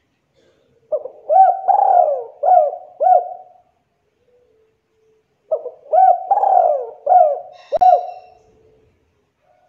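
Spotted dove cooing in two phrases of about five notes each, the first starting about a second in and the second about halfway through. A brief sharp click falls near the end of the second phrase.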